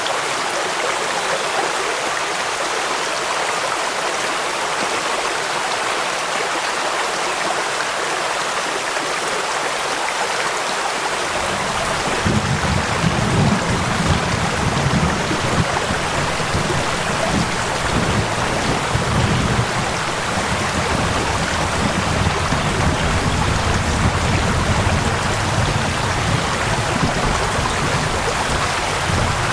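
Stream water running steadily over rocks, mixed with falling rain. About twelve seconds in, a deeper low rumble of rushing water joins and keeps going.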